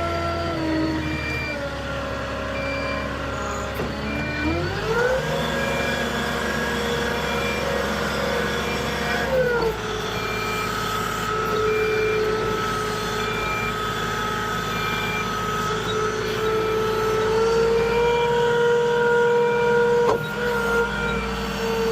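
Moffett truck-mounted forklift's engine running, revving up about four seconds in and dropping back to a lower speed about five seconds later, while its reversing alarm beeps about once a second.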